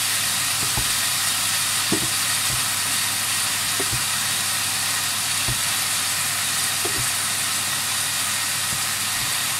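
Stir-fry sizzling steadily in a hot pan, with wooden spatulas knocking and scraping against the pan every second or two as minced beef is scooped and moved.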